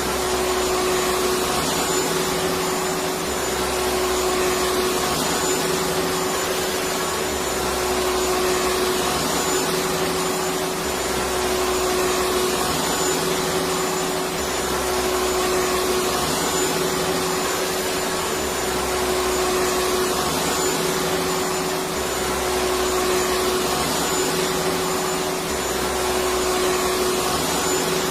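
Electric vacuum cleaner running steadily: a constant motor hum over an even rush of air, unchanging throughout.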